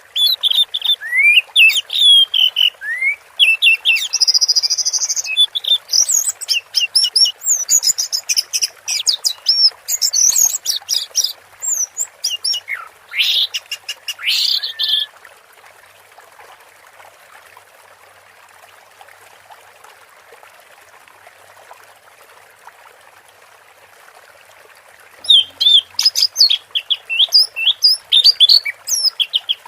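Orange-headed thrush singing: long runs of varied whistled phrases and rapid chirps, then a pause of about ten seconds in the middle before it starts again near the end, over a steady background hiss.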